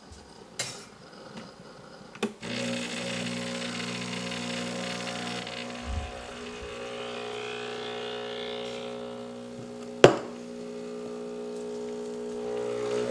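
Breville Barista Express espresso machine's vibratory pump humming steadily as it pulls an espresso shot, starting with a click about two seconds in. A sharp click comes about ten seconds in.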